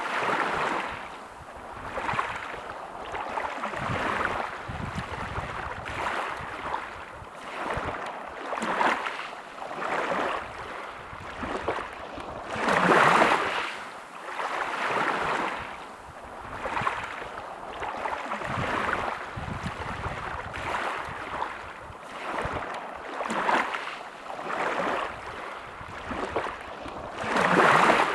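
Sea waves washing onto a beach, a hiss that swells and falls back every couple of seconds, with bigger surges about halfway through and near the end.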